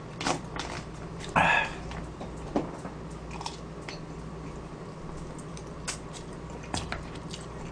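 A person chewing a mouthful of rice, with scattered short clicks of a plastic fork scraping and tapping in a plastic takeout tray, and one brief louder rustle about a second and a half in, over a steady low hum.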